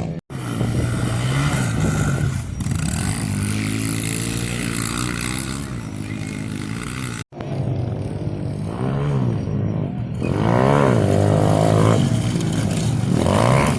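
Small pit bike engines revving up and down, pitch climbing and falling as they accelerate and shift. The sound cuts out completely twice, briefly.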